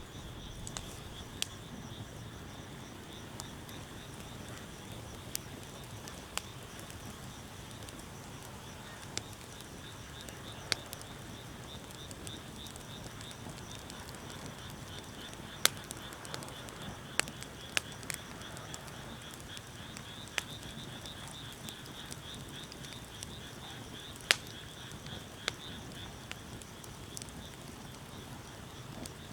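Wood bonfire crackling, with sharp pops at irregular moments, a few of them loud. Under it runs a steady, high, pulsing trill.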